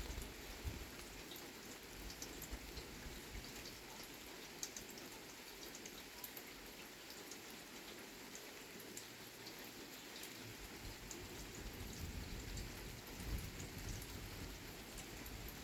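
Steady rain during a thunderstorm, with scattered drops ticking sharply on a nearby surface.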